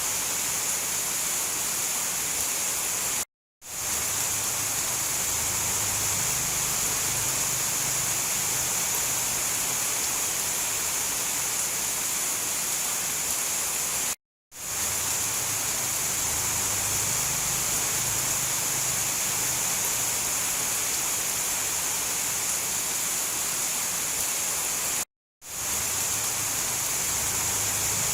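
Steady heavy rain, an even hiss with a bright high edge. It cuts to silence for a moment three times, about eleven seconds apart, and fades back in each time.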